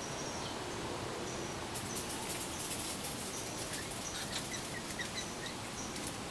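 Small birds chirping in short high notes that repeat through the clip, with a quick run of about five chirps about four and a half seconds in. Leaves and twigs crackle and rustle about two to three seconds in.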